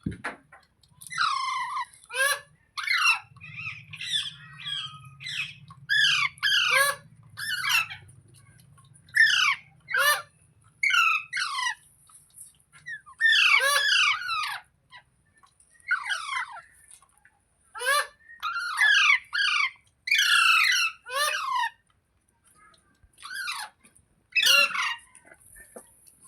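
Pet green Indian ringneck parakeet giving short, shrill squawking calls that fall in pitch, repeated roughly once a second in small groups with brief pauses between.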